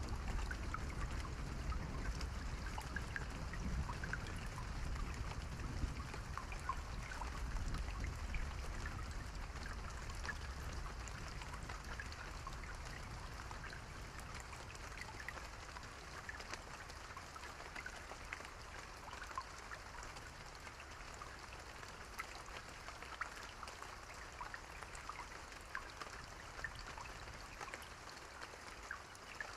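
Steady rain with many separate drops pattering and dripping. A low rumble of distant thunder fades away over the first several seconds, leaving only the rain.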